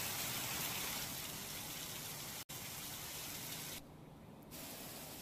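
Heavy rain falling, a steady hiss, cut off for an instant about two and a half seconds in and briefly duller just before four seconds.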